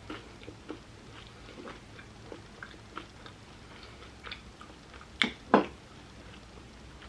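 Close-miked chewing of food, with soft wet mouth clicks throughout and two louder sharp clicks a little past halfway.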